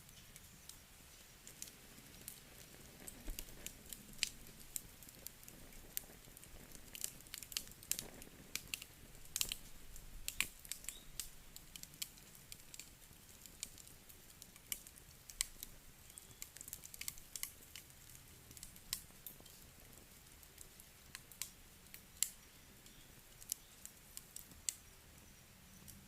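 Wood fire crackling in a fireplace: irregular sharp pops and snaps, several a second at times, over a faint low rush.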